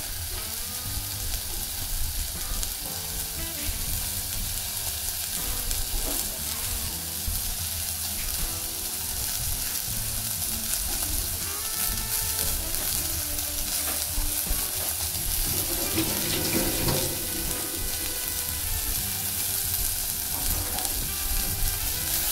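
Onion, garlic and ginger sautéing with pieces of roast pork belly in a pot on a gas burner: a steady oil sizzle, with a spatula stirring and scraping the pot near the end.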